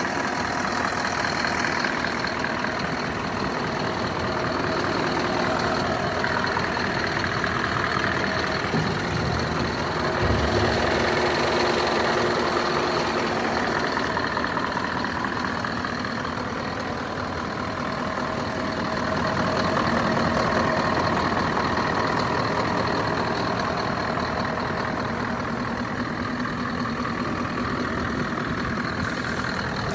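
Scania R560 truck's V8 diesel engine running at a steady idle, its level swelling gently now and then, with a thin steady high whine over it.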